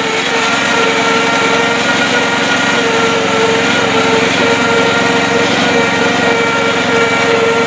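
Mastercraft lawn tractor's engine running steadily with a steady whine over it, the tractor stuck in the mud.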